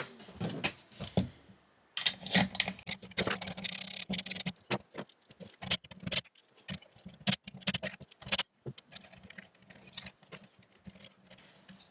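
Socket on an extension bar undoing bolts in a metal junction box, with rapid metal clicking and rattling of tools and parts. A denser stretch of rattling comes about two seconds in.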